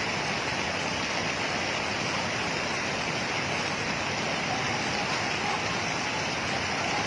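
Steady, unbroken rush of moving water, with no single splashes or strikes standing out.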